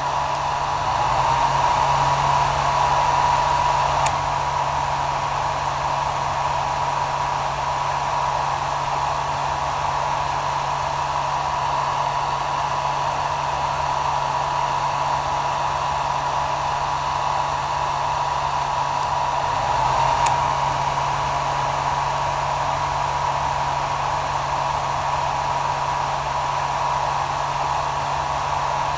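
Hair dryer running continuously: a steady airy rush with a thin whine and a low motor hum. It swells slightly for a few seconds about a second in and again briefly about two-thirds of the way through.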